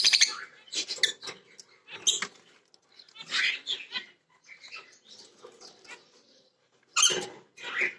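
Lovebirds calling with short, scattered chirps and squawks, the loudest pair of calls near the end.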